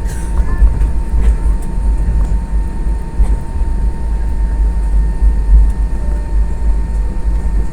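Steady cabin noise inside an Airbus A320: a deep rumble from the aircraft with a thin, steady high tone running over it.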